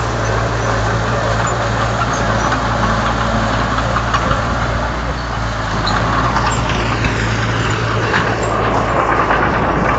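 Komatsu D31 bulldozer's diesel engine running steadily, a low constant hum under a rough noisy wash that grows a little louder in the second half.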